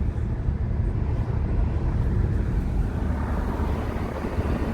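Steady low rumble of engine and tyre noise inside a moving vehicle's cabin.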